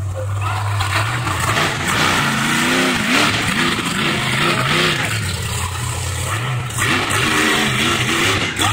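Monster truck engine revving up and down again and again, its pitch rising and falling several times.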